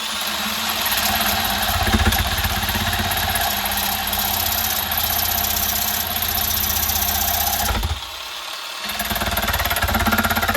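Power tool cutting off a knife's handle pin: the motor runs at speed with a steady high whine and grinding noise, eases off about eight seconds in, then cuts again.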